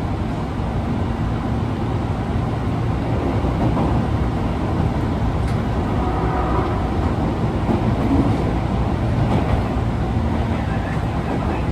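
Running noise of an Osaka Metro 22 series subway car, numbered 22962, heard from inside while underway: a steady low rumble with a faint held tone. This car is singled out for its abnormal noise.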